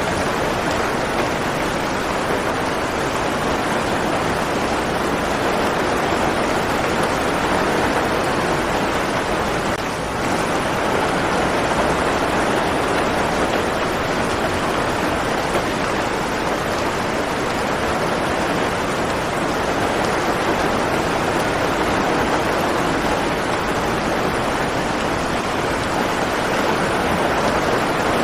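Steady rain: a continuous, even hiss of falling rain with no single drops or breaks standing out.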